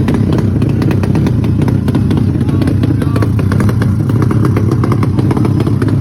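Motorcycle engine held at a very low, steady idle, with rapid irregular pops and clatter over a low hum.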